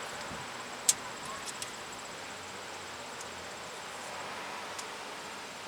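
A small screwdriver prying at a plastic retaining clip on an ABS sensor wire: one sharp click about a second in, then a few faint ticks. Underneath is a steady background hiss with a thin high tone, like insects outdoors.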